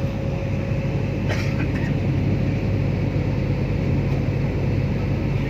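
Steady cabin drone of a Vietjet airliner in flight: a constant low rumble with a faint steady hum over it, and one brief click about a second in.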